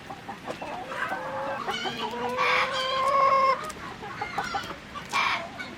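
A rooster crowing once, a long call about two seconds in, over the scattered clucks and chirps of other chickens.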